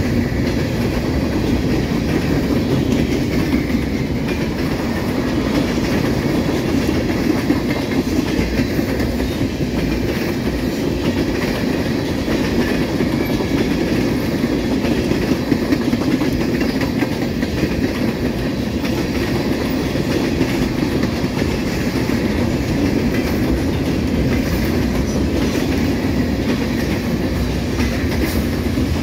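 Freight cars of a mixed manifest train rolling past at speed: a steady rumble of steel wheels on the rails that holds unbroken throughout.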